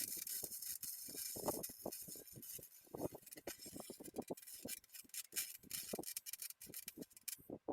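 Flux-core MIG welding on a small 110-volt welder: a continuous crackling hiss of the arc, peppered with sharp pops, that cuts off suddenly near the end as the bead is stopped.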